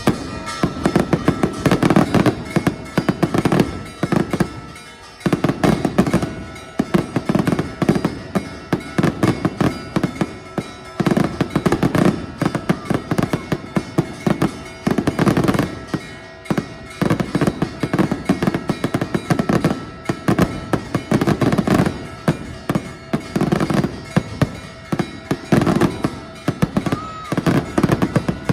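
Fireworks display: dense volleys of rapid bangs and crackling, coming in clusters of a second or few with brief lulls between them.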